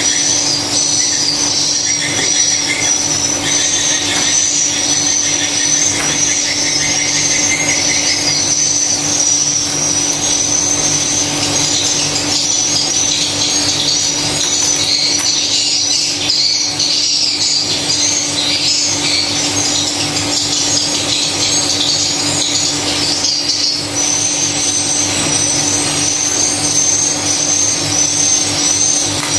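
Dense, continuous high-pitched twittering of swiftlets, with a steady low hum underneath.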